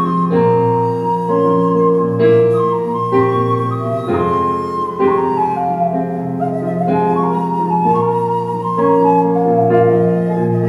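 Live fusion-gugak band music: a Korean transverse bamboo flute plays a melody with pitch slides over keyboard chords and bass.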